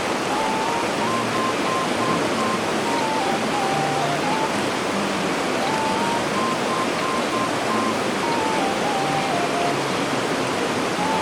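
Steady rush of a fast-flowing river. Over it, a quiet simple tune of single notes that plays through twice.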